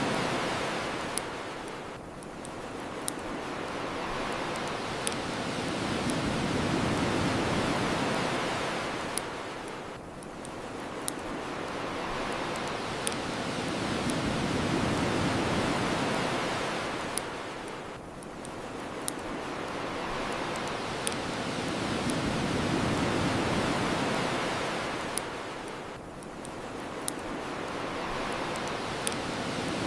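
Ocean waves washing on a shore, swelling and falling back about every eight seconds, with a bonfire crackling alongside, its sharp pops coming about every two seconds.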